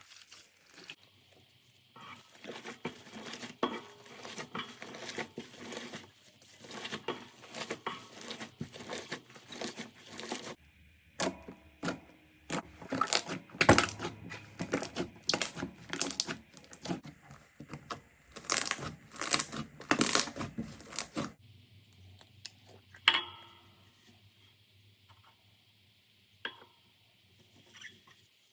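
Slime being handled and squished, giving dense runs of crackling pops and clicks. About two thirds of the way in it changes abruptly to a quieter stretch with only a few sharp pops.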